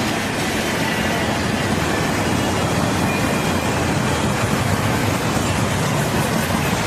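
Train's cars rolling past on the rails, a steady rumble and rush of wheels that keeps an even level throughout.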